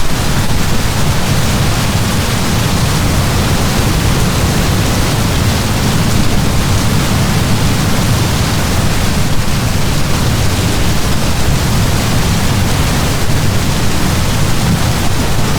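Heavy downpour of rain, a steady, dense hiss with a deep rumble underneath.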